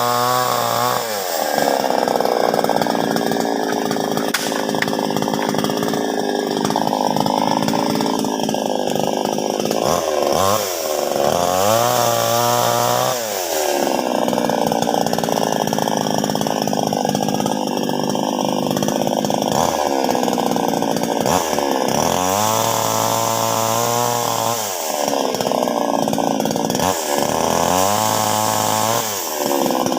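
Chainsaw cutting wood: the engine revs up high for stretches of several seconds, then drops back to idle between cuts, several times over.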